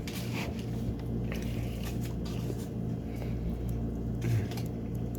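A steady low hum runs throughout, with scattered small clicks and rustles over it.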